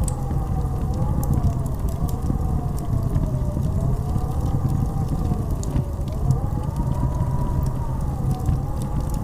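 Blizzard wind howling: a deep, steady rumble under a whistling howl that slowly rises and falls in pitch, with scattered faint crackles.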